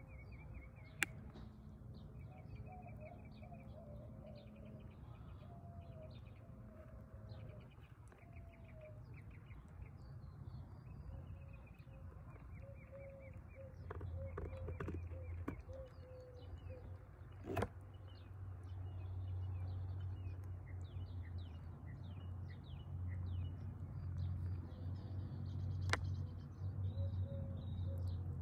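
Several wild birds chirping and singing, with quick trills and a lower warbling call. A steady low rumble underneath grows louder about halfway through, and there are three sharp clicks.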